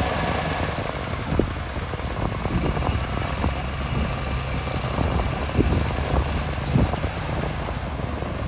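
Diesel engine of heavy earthmoving machinery running with a steady low rumble, with a few short knocks or clanks from the machine working.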